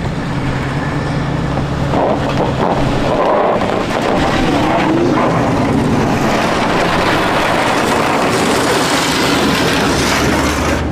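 A vehicle engine running steadily with a low hum. After about three seconds the hum gives way to a loud, even rushing noise.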